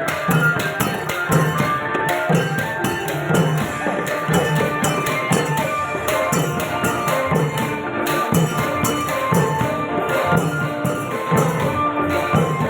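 Thai klong yao long-drum ensemble playing: a steady beat on the long drums with rapid cymbal clashes over it and a sustained melody line.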